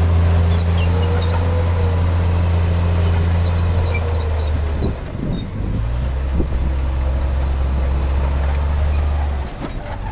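Heavy diesel engine of earthmoving machinery running under load. Its low note shifts about halfway, with a few metallic clanks, and then drops away near the end.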